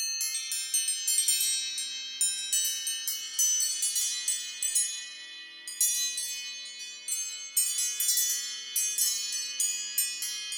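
An electronic alarm tone played in reverse: a dense cluster of many overlapping high, bell-like chime notes, like a wind chime, starting abruptly out of silence.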